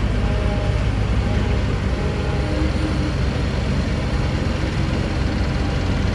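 Heavy diesel construction machinery running steadily: a deep, continuous engine rumble with faint whining tones above it.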